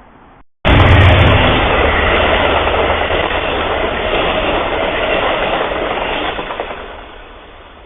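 A train passing close by on the rails, a loud rush of wheel and rail noise with a low rumble at first. It cuts in abruptly about half a second in and fades near the end.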